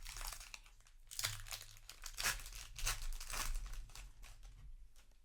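Crinkling of a Magic: The Gathering booster pack's foil-plastic wrapper as it is handled, in several bursts over about four seconds that die down near the end.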